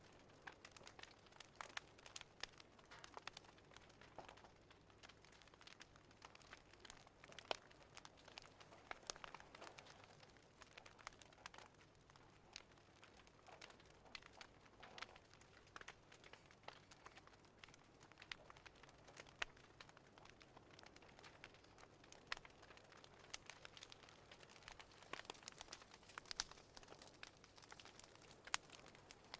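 Faint fireplace fire crackling, with irregular small pops and snaps over a soft hiss.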